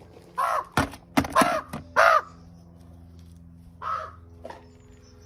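Pet magpie giving short, harsh caw-like calls, four in all, with a couple of sharp clicks in between.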